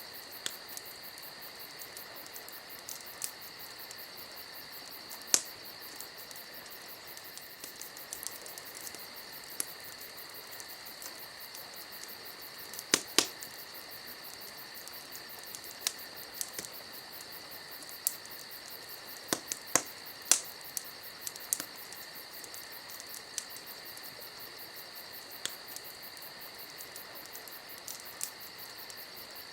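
Crickets chirring steadily, with scattered sharp pops and snaps from a crackling wood campfire. The loudest are a couple of cracks about thirteen seconds in and a cluster around twenty seconds.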